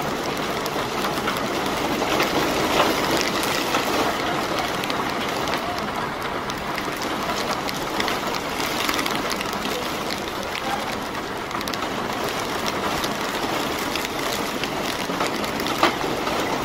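Heavy rain falling steadily on an umbrella: a constant hiss dotted with many sharp ticks of single drops striking the canopy.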